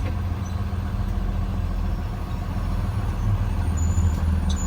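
School bus engine running with a steady low drone, heard from inside the bus.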